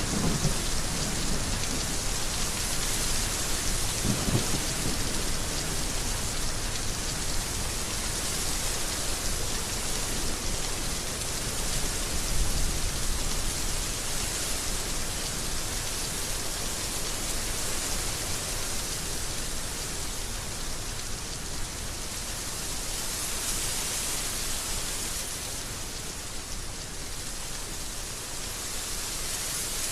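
Heavy rain falling steadily, a dense even hiss, with a low rumble at the very start and another about four seconds in.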